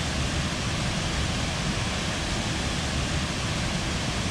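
Waterfall roaring steadily as its water plunges into the pool below, a dense unbroken rush.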